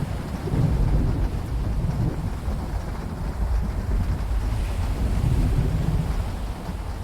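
A long roll of thunder heard from inside a yacht cabin: a deep rumble that swells about half a second in and eases off near the end, over steady rain and sea.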